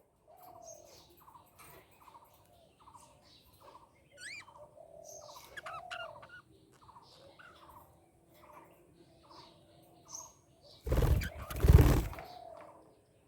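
Budgerigars chirping and chattering in a steady run of short calls, with a few rising whistles about four to six seconds in. Near the end comes a louder noisy burst that lasts about a second and a half.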